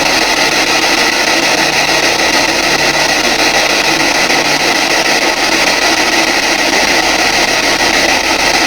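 P-SB7 spirit box sweeping radio channels: loud, steady static hiss.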